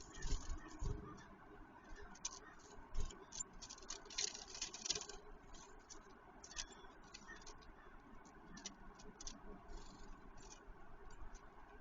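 Small birds pecking and scrabbling at peanuts: irregular sharp taps and scratches, thickest about four to five seconds in, with a few dull thumps in the first three seconds.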